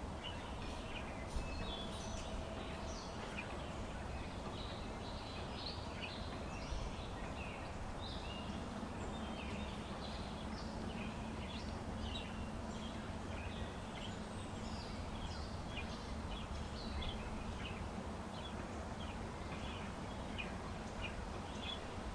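Small birds chirping in quick, scattered calls over steady low wind noise, with a couple of faint sharp taps.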